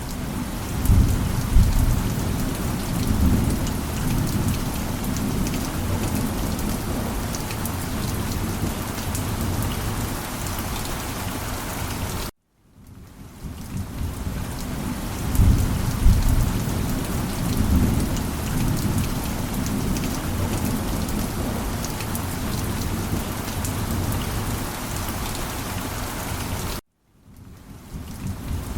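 Heavy rain hissing steadily, with low rolling thunder rumbling about a second in and again midway. Twice the sound cuts off suddenly and fades back in.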